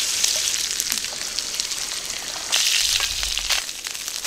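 Chopped pork belly sizzling and crackling in hot oil in a frying pan as a ladle stirs it, with many sharp spits and pops. About two and a half seconds in the sizzle gets louder as egg fried rice with leek fries in the pan.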